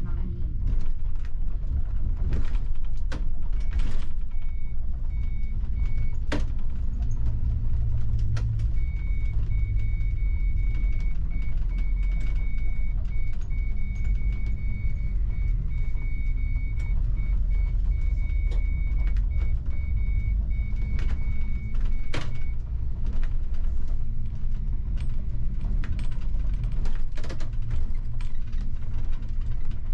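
Bus running, heard from the driver's cab: a low engine and road rumble with scattered knocks and rattles. A high electronic beeping sounds briefly about 3 seconds in, then again from about 9 to 22 seconds.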